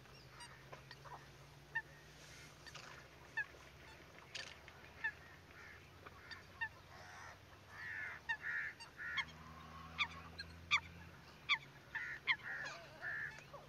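Birds calling: many short, sharp calls with sliding pitch, scattered and then busier in the second half, over a faint low hum.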